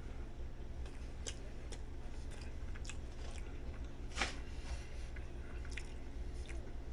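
A person chewing a mouthful of bread, with soft mouth clicks and one sharper click about four seconds in, over a steady low hum.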